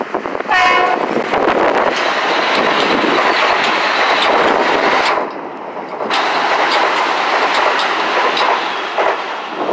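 Metro-North M8 electric multiple-unit train passing close at speed: a short horn blast about half a second in, then the steady rush of the train with rapid clicking of wheels over the rail joints, briefly quieter just past halfway.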